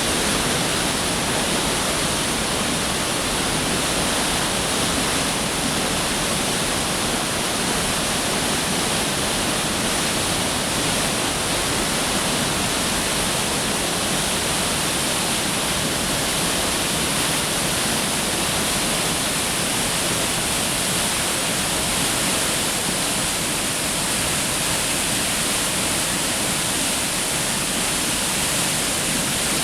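Fast water rushing steadily down a rock channel, a constant, even wash of sound with no breaks.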